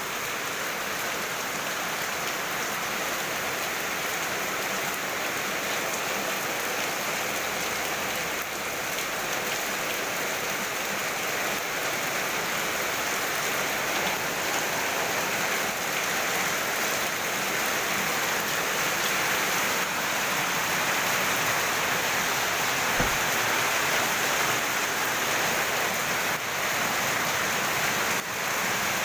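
Heavy rain pouring down steadily, a dense even hiss of rain hitting surfaces. A single brief low thump about three-quarters of the way through.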